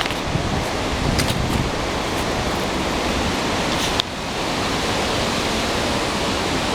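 Strong, gusty westerly wind blowing hard through trees and across the microphone, a steady loud rush. A few light clicks and snaps sound about a second in, and a sharp one at about four seconds.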